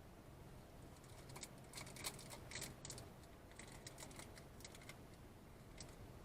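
Faint, irregular clicks and taps over a low steady hum, thickest around two to three seconds in.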